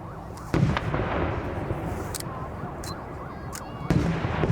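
Aerial fireworks shells bursting: a loud boom about half a second in and another near the end, with a few sharp cracks between them.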